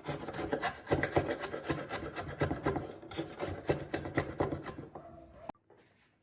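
Wood being rasped or scraped by hand in quick, irregular strokes, several a second; the sound cuts off suddenly about five and a half seconds in.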